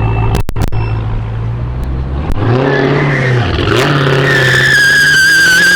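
Truck engine revving hard with its rear tires squealing in a burnout. The revs dip and climb again partway through, and a high steady tire screech sets in about four seconds in.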